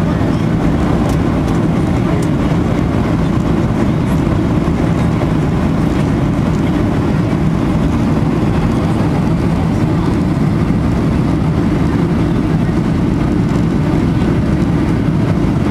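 Airplane noise: a steady, unchanging low drone of engines and airflow.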